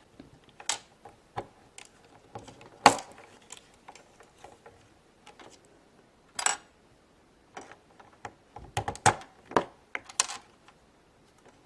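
Small plastic Lego pieces clicking and tapping as they are handled. The clicks come irregularly, with one sharp, loud click about three seconds in and a quick run of clicks near the end.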